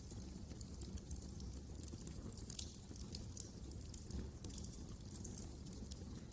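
Wood fire crackling in a fireplace: a steady low rumble of the flames with frequent small, irregular snaps and pops, a couple of them louder.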